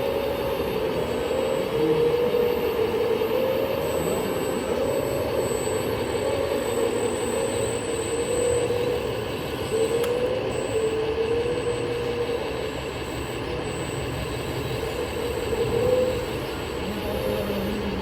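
Radio-controlled model vehicle running, with a whine that wavers up and down in pitch as it drives.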